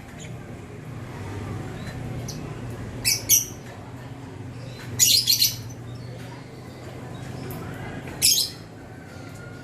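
Gloster canary giving short, high chirping calls: two quick ones about three seconds in, a longer run of several around five seconds, and one more near the end, over a steady low hum.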